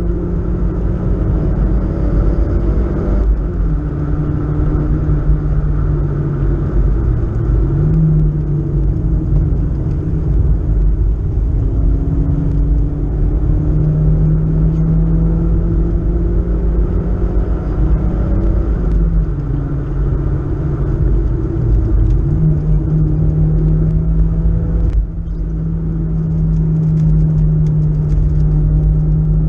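BMW E36 318is four-cylinder engine heard from inside the cabin at track pace, its note climbing under acceleration and dropping several times at gear changes and lifts, over steady road and wind rumble. The sound briefly dips in loudness about 25 seconds in.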